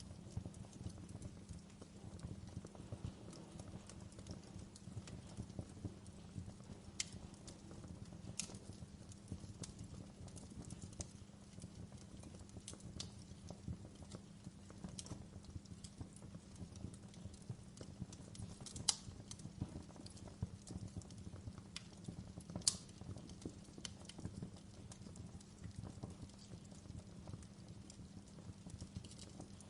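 Wood fire burning in a fireplace: a steady low rumble with constant small crackles and occasional sharp pops, the loudest two about two-thirds of the way through.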